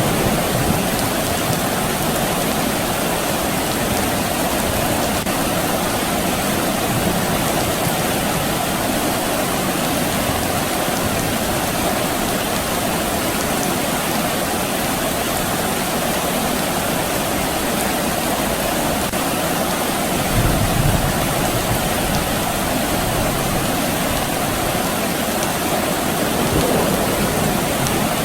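Steady soft rain, an even hiss, with a brief low rumble about two-thirds of the way through.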